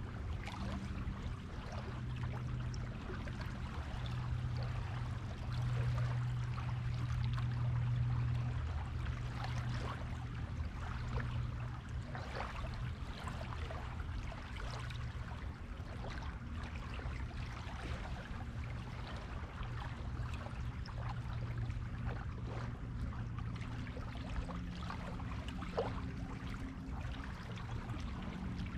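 Small waves washing and trickling along a beach shore, with many small crackles of water. A steady low hum lies underneath and swells a little from about six to eight seconds in.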